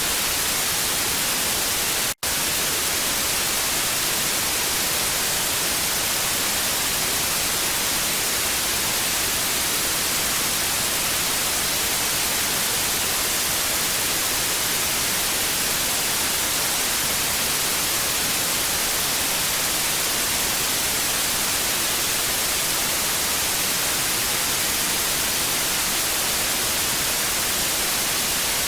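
TV static sound effect: a steady, bright hiss of noise, heavier in the high end. It drops out for a split second about two seconds in.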